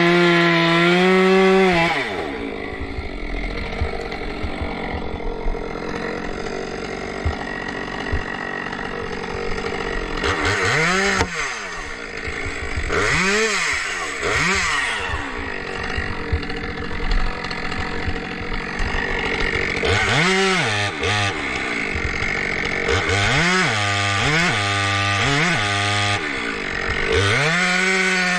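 Two-stroke chainsaw running at high speed, then dropping back about two seconds in. Later its engine is revved up and down in a series of quick throttle blips, and near the end it returns to a high, steady speed.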